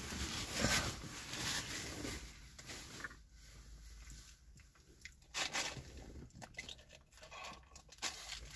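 A person chewing food inside a car cabin, with paper crinkling and tearing and scattered soft clicks and rustles. The handling is busiest in the first few seconds, with a few brief louder rustles later on.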